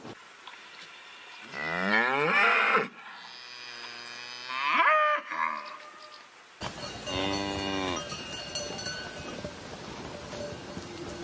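Cows mooing: three long moos a couple of seconds apart, the second sliding up in pitch at its end.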